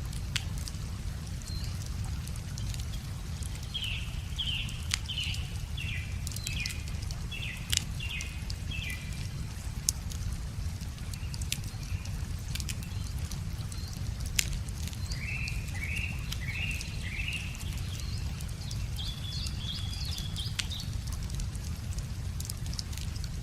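Wood fire crackling with scattered sharp pops, while songbirds sing short phrases of quick falling chirps, three times, over a steady low rush of river water.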